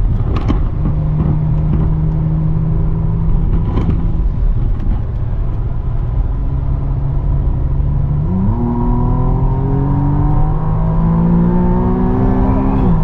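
McLaren sports car engine heard from inside the cockpit under way on track: a steady drone for the first few seconds, then the engine note climbs steadily under hard acceleration from about eight seconds in, dropping sharply at an upshift near the end.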